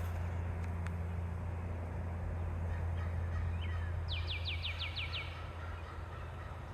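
Forest ambience under a steady low rumble, with a songbird giving one quick series of about seven short, downward-sliding notes a little past halfway.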